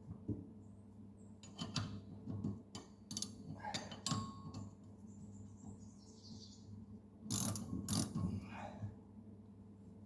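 Hand tools and steel parts clinking and knocking on a mower deck while blade bolts are worked by hand: scattered sharp metallic clicks, the two loudest near the end.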